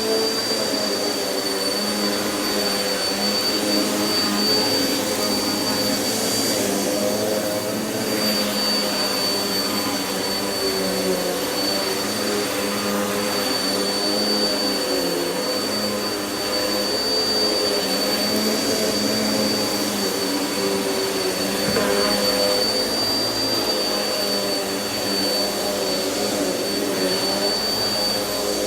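Vacuum cleaner running steadily: a steady high whine above a lower motor hum that wavers slightly in pitch.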